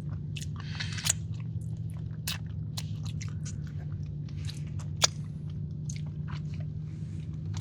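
Close-miked chewing and wet mouth clicks of someone eating a soft, gooey chocolate cake batter cookie, with one sharper click about five seconds in.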